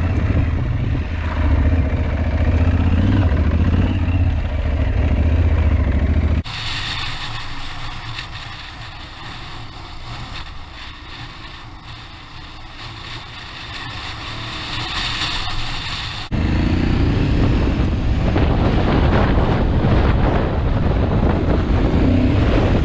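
Adventure motorcycle engine running under way on a rough trail, with wind on the microphone. About six seconds in the sound cuts suddenly to a quieter hiss for about ten seconds, then the engine comes back loud, its pitch rising and falling as the throttle is worked.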